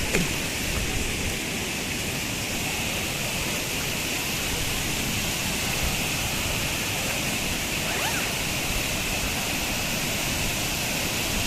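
Steady rush of river water pouring over rocks at a waterfall running low on water.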